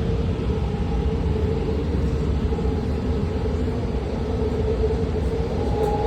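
BART Fleet of the Future train running with a steady low rumble and a steady whine, heard from inside the car as it comes into a station.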